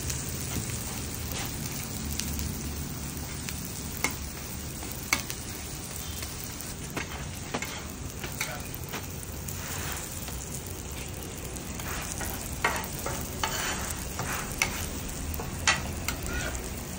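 Porottas frying on a large oiled flat griddle: a steady sizzle, with scattered sharp clicks and taps as they are handled on the hot surface.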